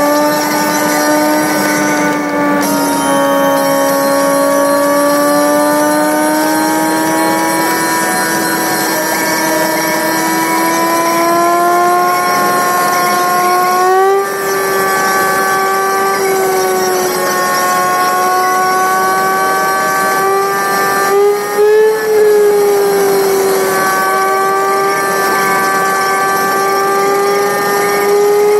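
Car engine and road noise played back six times fast, heard as a steady high-pitched whine that drifts slowly up and down in pitch as the car's speed changes, with brief dips about 14 and 22 seconds in.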